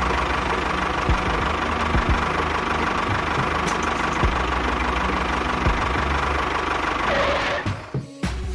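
A small engine or motor running steadily at an even pitch, then cutting off about eight seconds in.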